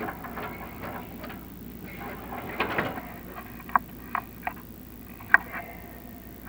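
Chimney inspection camera scraping along the inside of a clay flue, then knocking against it in a few sharp clicks with a short ring. The loudest click comes a little past the middle.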